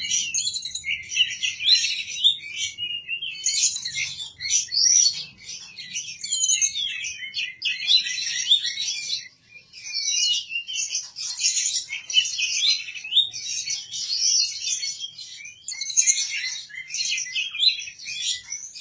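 A songbird singing a fast, unbroken run of varied chirps, whistles and trills, with a short break about nine seconds in.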